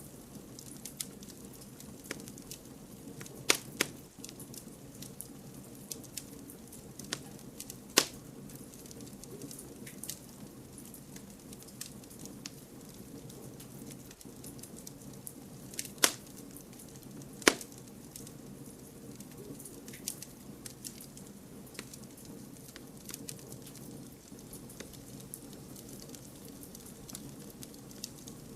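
Wood campfire crackling: a steady low hiss of flame under frequent small snaps, with a few sharp loud pops, two close together about three and a half seconds in, one at about eight seconds, and two more between sixteen and eighteen seconds.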